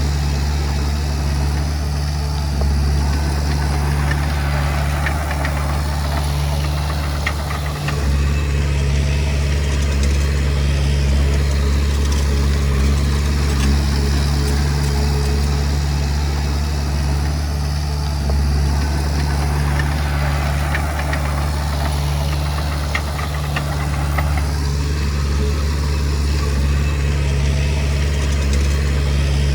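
Komatsu D20P bulldozer's diesel engine running steadily, with a few faint clanks.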